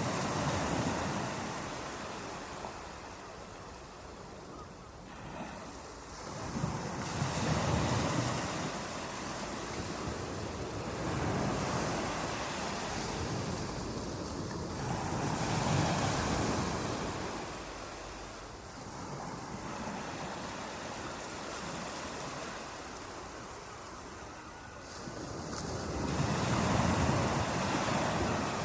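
Ocean waves breaking and washing on a shore, surging and receding in swells every few seconds, with a longer lull before the last wave near the end.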